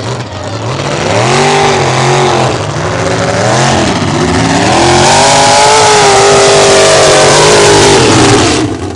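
Loud truck engine revving hard, its pitch repeatedly rising and falling, over a heavy noisy roar. It grows louder about a second in and stays loud.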